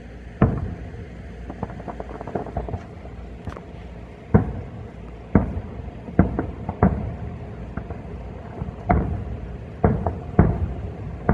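Aerial fireworks shells bursting: about ten sharp booms at uneven intervals, each trailing off in a short echo, with a run of lighter crackles a couple of seconds in.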